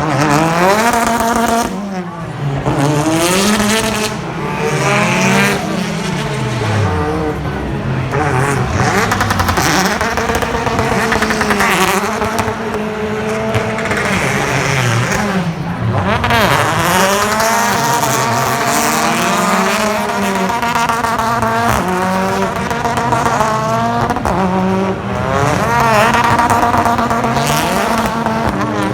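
BTCC touring cars' turbocharged four-cylinder engines racing, revs sweeping up and down through the gears as one car after another goes by, several engines overlapping.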